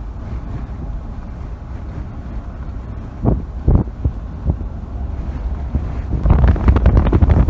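Strong wind buffeting the microphone: a low rumble with sudden gusty bursts, growing louder and rougher near the end.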